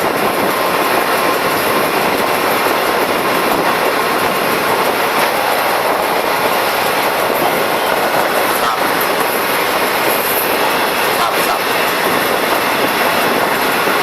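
Test train running along the track, heard from aboard as a steady noise of wheels on rails, with a couple of faint clicks.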